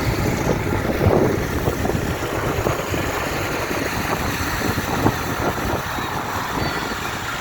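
Tractor engine running with a steady low rumble, with scattered short knocks; the sharpest comes about five seconds in.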